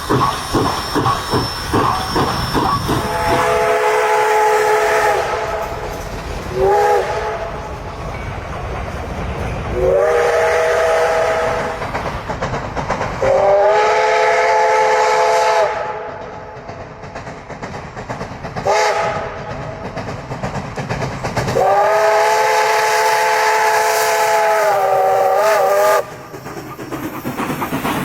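Steam locomotive working, its exhaust chuffing quickly at first, then its steam whistle sounding about five blasts, one of them short, with hiss and rail noise between the blasts.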